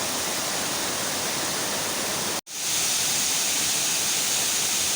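Waterfall's rushing water, a steady hiss-like roar. It drops out for an instant about halfway through, then returns slightly louder and brighter.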